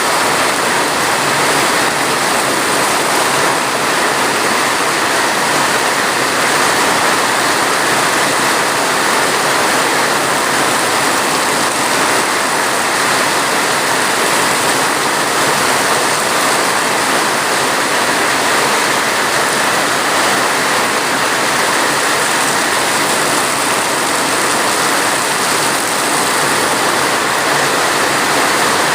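Steady rain, a dense, even hiss that never lets up.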